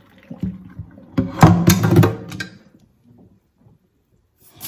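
Knocks and then a loud, ringing clatter of a cooking pot being handled in a kitchen sink while parboiled chicken bones are being cleaned. A tap starts running at the very end.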